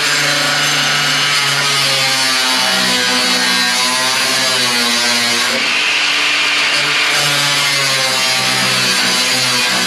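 Power saw cutting through the steel hinge mounting in a 1941 Lincoln Zephyr's body. It runs steadily and loudly, its motor pitch wandering up and down as it cuts.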